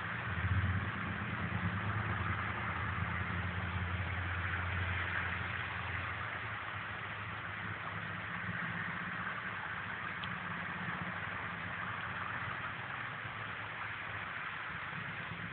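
Motor vehicle engine running with a low, steady hum that is loudest in the first few seconds and then eases, over a constant hiss.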